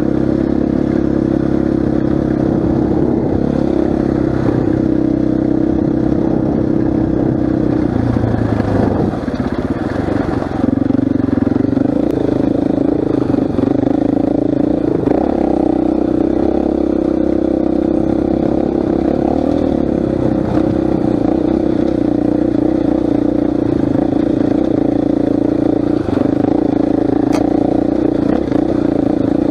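KTM 500 EXC single-cylinder four-stroke dirt bike engine running steadily while ridden. The engine note breaks and shifts in revs about a third of the way in and again around halfway, then settles back to a steady note.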